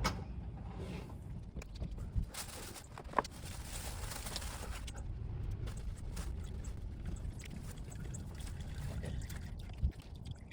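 Used engine oil draining from a van's oil pan into a drain pan, a steady pouring stream, over a low rumble and with a few light knocks.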